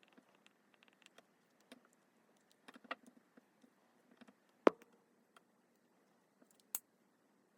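Scattered light clicks and taps of small parts and tools being handled on a phone's hinge assembly. One sharp click comes a little past halfway and a second, thinner click near the end.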